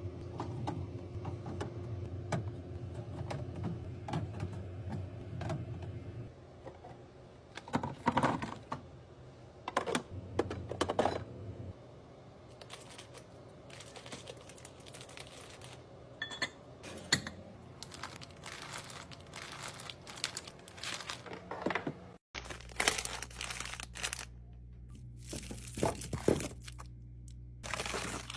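Plastic containers, lids and food packaging being handled and set down: irregular clicks and knocks with crinkling and tearing, over a steady low hum.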